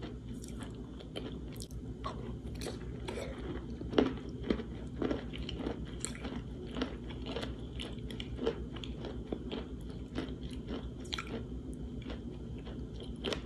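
Close-up chewing of a mouthful of wet chalk soaked in liquid: a continuous run of small crunches and crackles, the loudest about four seconds in.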